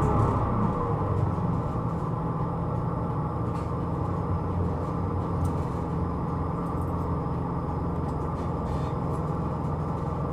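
Hino Rainbow II route bus heard from inside the cabin: the diesel engine settles to a steady low idle as the bus comes to rest, with a few faint clicks.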